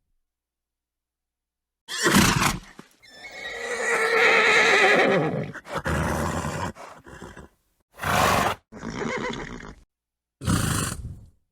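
Horse sounds edited together with dead silence between them: a short snort about two seconds in, then a wavering neigh of about two seconds, then several shorter snorts near the end.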